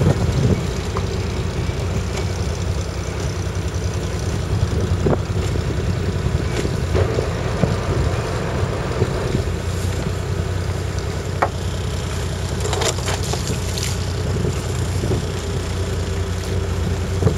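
Fishing boat's engine running steadily, with wind and water noise over it and a few scattered clicks and knocks.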